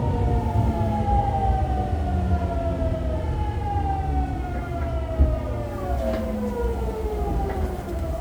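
Fukuoka City Subway 2000 series Hitachi GTO-VVVF inverter and traction motors whining in several tones that fall steadily in pitch together as the train slows for the station, over the low rumble of the running gear.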